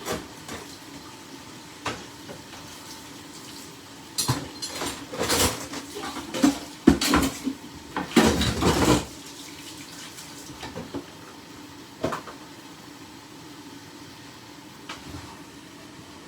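Dishes and utensils clattering at a kitchen sink, with water from the tap running briefly about halfway through, over a low steady background.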